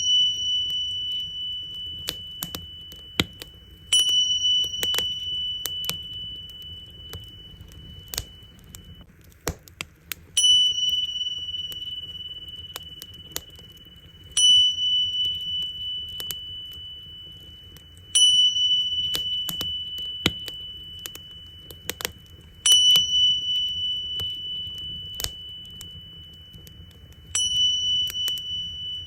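Tingsha cymbals struck together six times, roughly every four seconds, each strike ringing out on one clear high tone that slowly fades. Underneath, a wood fire crackles and pops.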